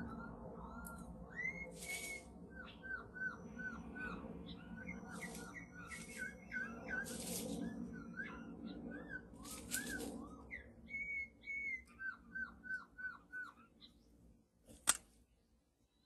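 Bird calls: runs of five or six short, arched whistled notes at about three a second, mixed with harsh, high rasping calls. A single sharp click comes near the end.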